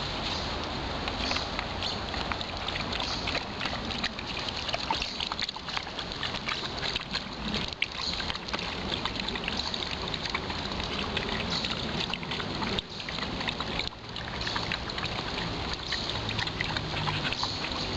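Footsteps squelching and splashing through wet, boggy ground, a continuous sloshing crackle with a few brief dips.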